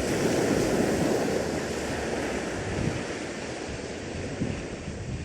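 Sea surf washing against a rocky shore, with strong wind rumbling on the microphone; the rush swells just after the start and then holds steady.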